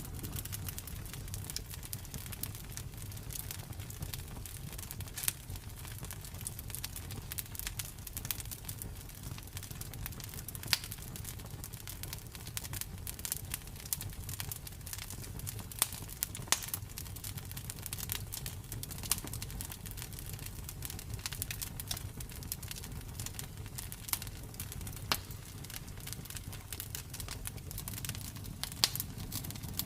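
Campfire burning, with dense crackling and several sharper pops of the wood scattered through, over a low steady rumble.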